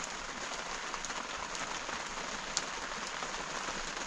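Steady rain falling and pattering on surfaces, with scattered drop ticks and one sharper tap about two and a half seconds in.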